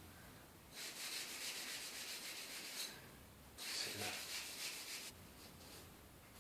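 Abrasive scouring pad scrubbing linseed oil into an oak door wedge, two bouts of quick back-and-forth strokes about two seconds and a second and a half long, faint.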